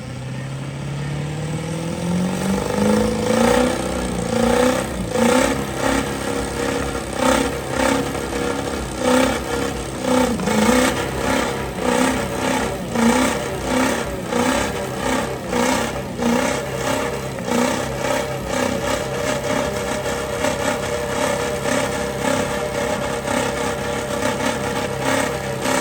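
A truck engine revs up over the first few seconds, then is held at high revs with the throttle pulsed about once a second.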